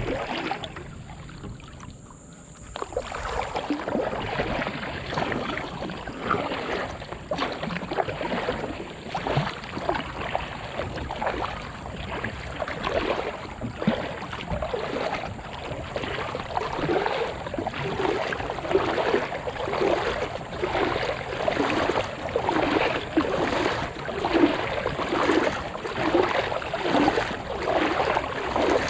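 Kayak paddle strokes: the paddle blades dipping and splashing in the water in a steady rhythm, a little over one stroke a second. It is quieter for the first few seconds.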